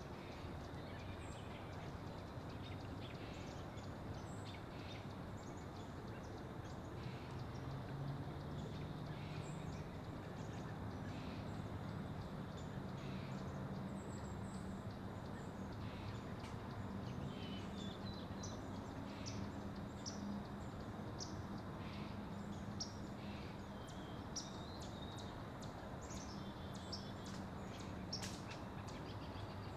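Steady outdoor background hiss with a faint low drone, and short high chirps of small birds scattered through it. The chirps come more often in the last few seconds.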